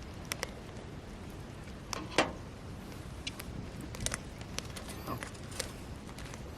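Irregular sharp clicks and pops, about a dozen, with one louder pop about two seconds in, over a low steady background.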